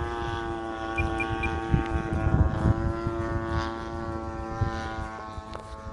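Single-cylinder two-stroke DLE 35 gas engine of an RC Van's RV-8 flying overhead, a steady drone that eases slightly near the end. About a second in come three short beeps from the radio transmitter's trim, and wind buffets the microphone a couple of seconds in.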